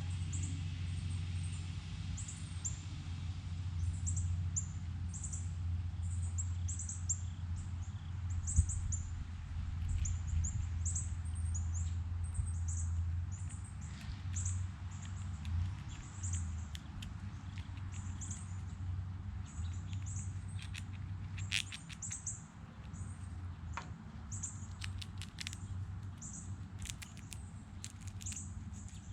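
Small birds chirping, short high thin calls repeating two or three times a second, over a steady low rumble. In the second half, a scatter of sharp clicks and taps joins in.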